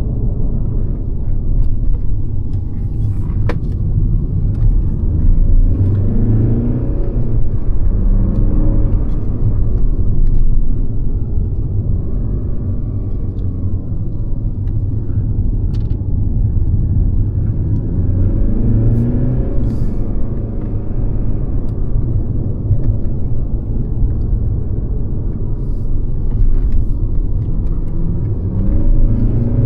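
Mercedes-Benz C-Class (W206) on the move: a steady low engine and road rumble, with the four-cylinder engine's note rising under acceleration about three times, around 6 s, 18 s and near the end.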